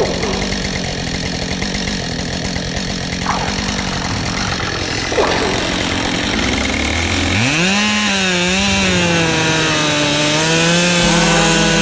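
Husqvarna 572 XP two-stroke chainsaw running; about seven seconds in its engine note climbs and then holds high with a wavering pitch as the saw cuts through an oak log.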